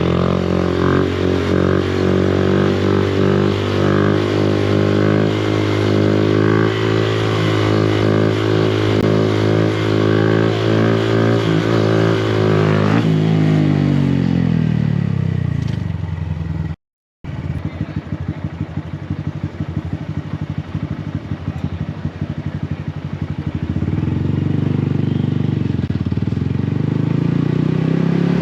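Honda Grom's 125 cc single-cylinder engine through a Yoshimura exhaust, running at a steady speed, then falling in pitch as it slows down to a low, pulsing near-idle. Two-thirds through, the sound cuts out for a moment. Near the end the engine revs up again as the bike accelerates.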